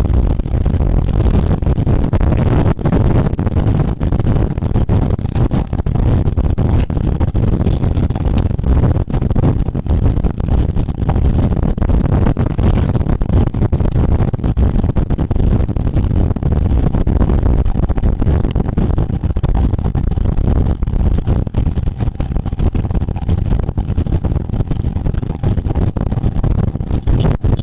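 Steady wind rush buffeting the microphone of a camera carried along at road-race speed, a loud, low rumble with no break.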